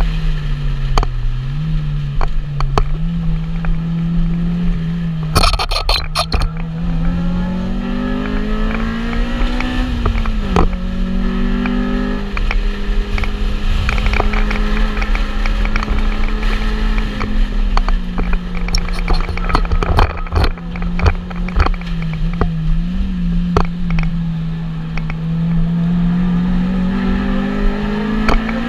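Track car's engine heard from inside the stripped cabin under hard driving, its note rising and falling with throttle and gear changes, with a sharp drop about ten seconds in. A brief harsh rattle cuts in about five and a half seconds in.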